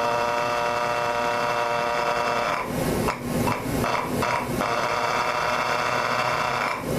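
Electric starter cranking a micro mini pulling tractor's glow-plug engine, which does not catch. It spins with a steady whir, stops and restarts in several short bursts about three seconds in, then spins steadily again and cuts off just before the end.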